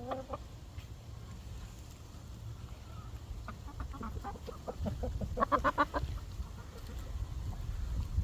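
Chickens clucking in short, scattered calls, with a quick run of louder clucks about five seconds in, over a low rumble.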